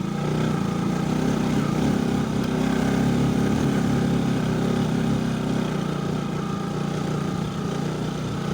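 Motorcycle engine running steadily while riding, its note easing slightly about two-thirds of the way through.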